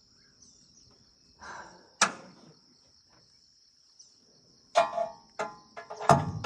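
Sharp metallic clanks from the jammed plunger mechanism of a Massey Ferguson 1840 small square baler being worked loose: one about two seconds in, then a quick run of several near the end, each with a short ringing tail. A steady high insect trill, like crickets, runs underneath.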